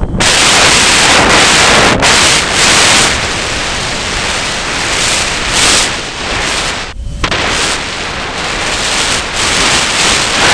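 Strong, gusting wind blasting straight onto the microphone: a loud, rough rumble that surges and eases, dropping back briefly about seven seconds in.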